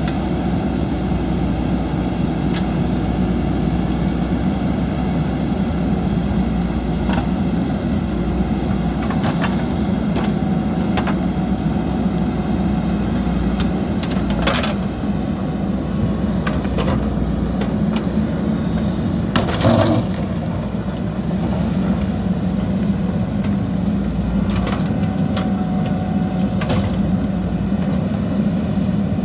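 JCB backhoe loader's diesel engine running steadily under digging load, with scattered sharp cracks and knocks as the bucket breaks and scrapes the soil, the loudest about twenty seconds in.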